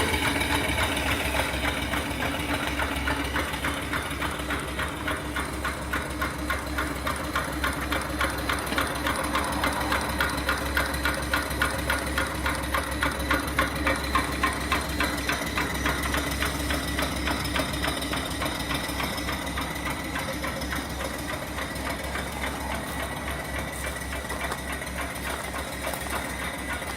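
Small single-cylinder steam engine (2.75-inch bore, 4-inch stroke, flyball governor) running steadily under steam from its return flue boiler, with a fast, even beat of exhaust chuffs and valve-gear clatter. It gets gradually a little quieter.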